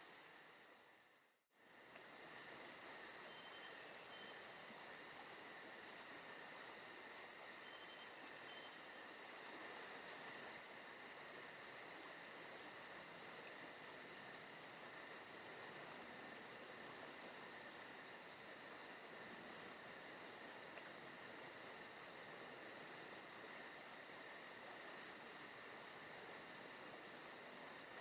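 Forest ambience of crickets and other insects chirring steadily, with a fast, high, even pulsing over a faint hiss. It fades out briefly about a second and a half in and comes straight back.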